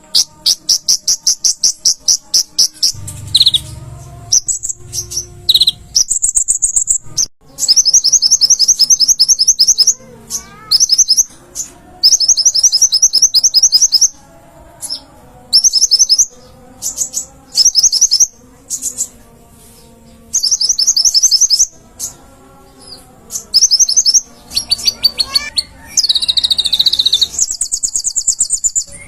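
Konin songbird singing loud bursts of very rapid, high trilling chirps, one burst after another with short pauses between.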